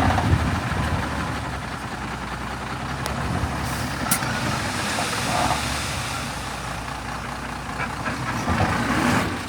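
Heavy diesel earthmoving machinery running steadily under load, with a brief high squeak or hiss about four seconds in.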